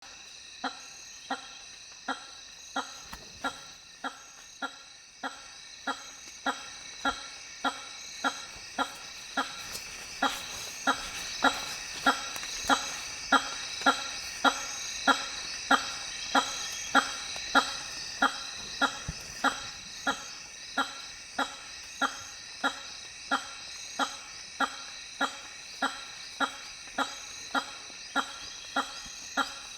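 Hammer-headed fruit bats giving short honking calls, about one and a half a second in an even run, louder in the middle stretch. This is the male's lek call to attract females. A steady high insect chorus runs underneath.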